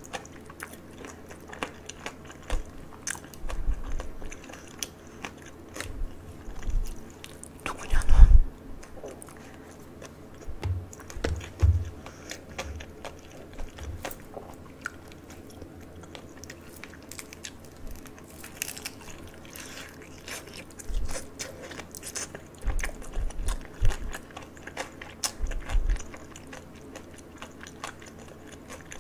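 Close-miked crisp bites and chewing of pan-fried dumplings: irregular crunches and mouth sounds, the loudest bite about eight seconds in.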